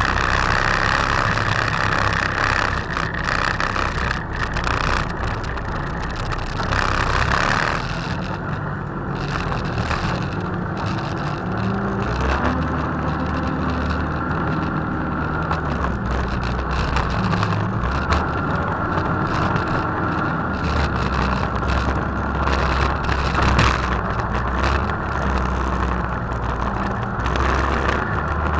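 Engine of a competition off-road 4x4 running at low revs as it crawls over a rough dirt trial course, heard up close from the bonnet, its note rising and falling with the throttle.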